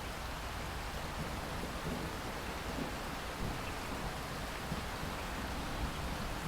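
Steady rain falling in a rainstorm, with a low rumble of thunder underneath.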